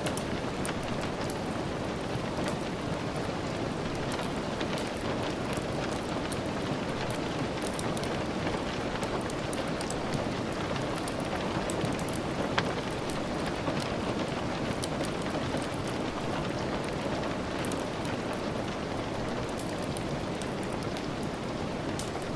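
Steady rain with a wood fire crackling, scattered small clicks and pops over the rain and one sharper pop about halfway through.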